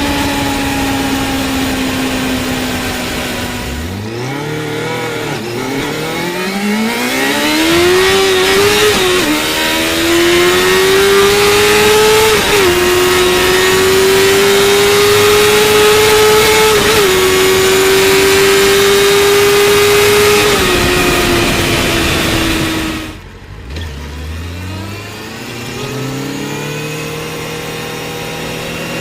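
Yamaha FZ6 600 cc inline-four motorcycle engine under way. It runs down, then revs up through the gears with short dips at each shift, holds high revs for several seconds, and shuts off sharply before pulling away again in stepped rises.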